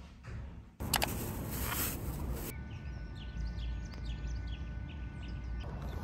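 A small bird chirping: a quick run of short, falling chirps. Before the chirps there are about two seconds of rustling noise, like wind or handling on the microphone.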